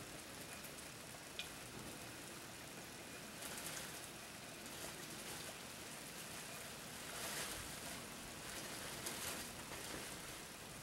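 Rain falling steadily during a thunderstorm, swelling louder several times as heavier bursts come through.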